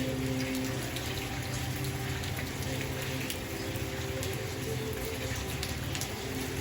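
Steady rain falling, with individual drops ticking now and then. Faint steady low tones run underneath.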